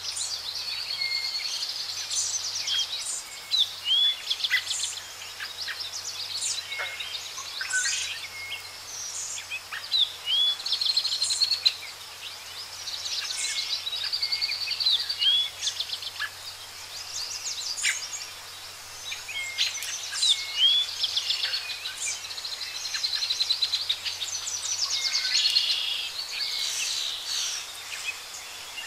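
Songbirds singing: repeated short chirps, upward-hooked whistled notes and fast trills, one after another, over a faint steady low hum.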